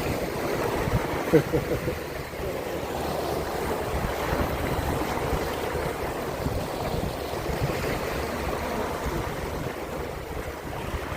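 Water sloshing and lapping against a small boat, mixed with wind on the microphone, with one brief louder knock about a second in.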